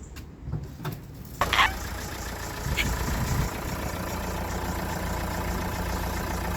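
Car engine idling steadily, running again after its battery went flat. About a second and a half in there is a sudden bump, and the engine sound is louder from then on.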